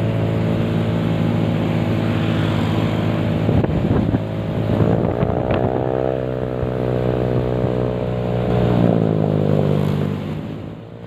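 Motorcycle engine running, its pitch rising and falling twice with the revs, about five and nine seconds in, then dropping away near the end.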